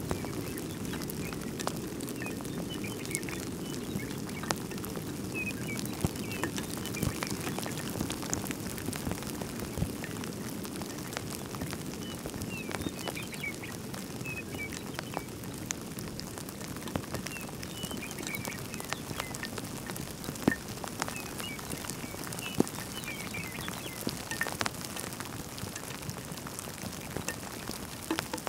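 Light rain, with scattered drops ticking sharply at irregular moments over a steady low rumble of wind. Small birds chirp briefly now and then.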